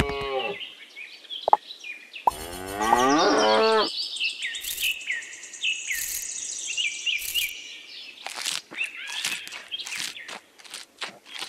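A cow mooing: the tail of one moo at the start and a full moo about two seconds in, with small birds chirping repeatedly through the middle and a few short clicks near the end.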